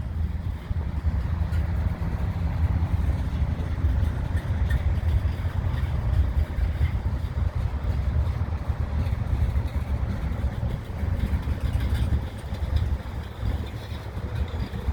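Diesel freight locomotive engine running with a steady low rumble as a slow train approaches on the line.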